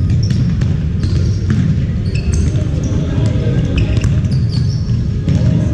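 Indoor basketball game: shoes squeak repeatedly on the court floor and a ball bounces, over a steady low rumble of noise in a large hall.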